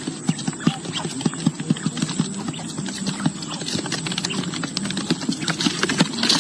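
A quick, uneven run of sharp knocks or taps, several a second, over a steady low hum.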